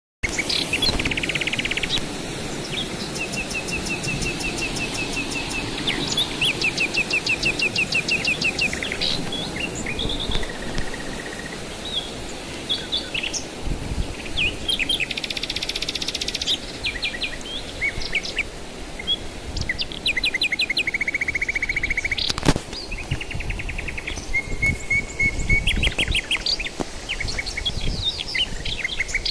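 Several birds chirping and singing in quick repeated trills and tweets, one after another, over a steady rushing background of river water. A single sharp click about three quarters of the way through.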